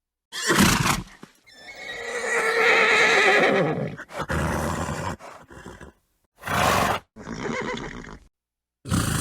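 A horse making a short noisy blow, then neighing in one long wavering call, followed by several shorter blows and calls with brief pauses between them.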